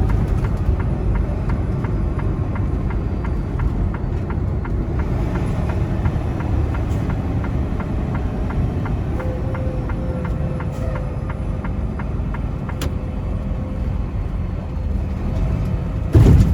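Semi truck heard from inside the cab: steady engine and road rumble as the truck rolls off the interstate into a rest area. A sudden louder low surge comes just before the end.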